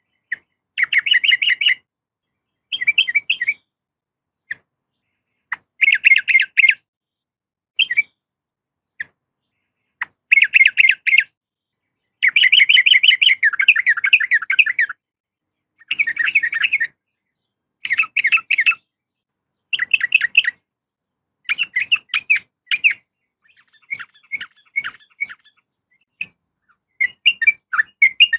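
Sooty-headed bulbul calling in short bursts of rapid chattering notes, each under a second with silent gaps between, and one longer run of about three seconds midway. This is a female's call to males, as used by bird keepers to lure males or get a caged bird singing.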